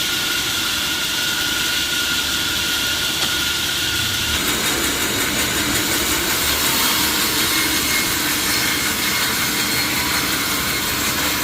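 Sawmill saw machinery running with a steady, loud mechanical noise; a thin whine drops out and the sound shifts about four seconds in.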